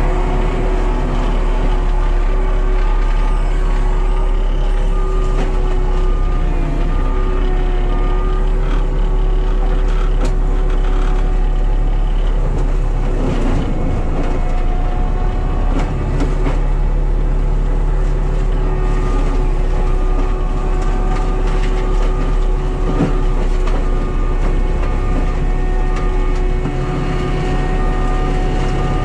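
Cat skid steer's diesel engine running under load with its front-mounted brush mulcher head spinning, a steady drone and whine. Scattered cracks and knocks about halfway through as the mulcher chews into wood, and a repeated beeping joins in the second half.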